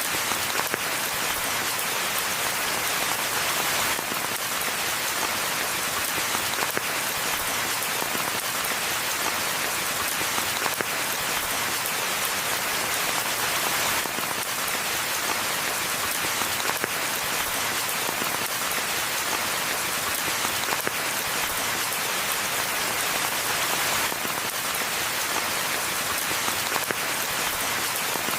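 Steady rain falling on forest ground and foliage, an even hiss dense with small drop patters.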